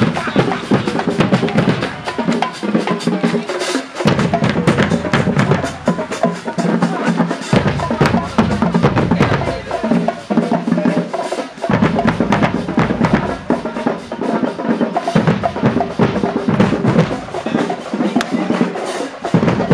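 Marching band drumline playing a loud, fast cadence of snare strokes and rolls, with the bass drums dropping in and out every few seconds.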